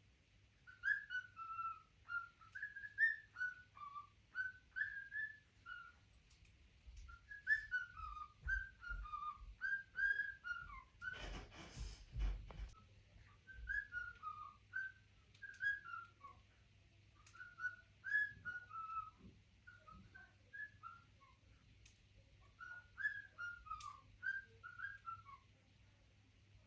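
A pet bird whistling: quick phrases of clear, sliding whistled notes, repeated with short pauses. About halfway through there is a brief rustling noise.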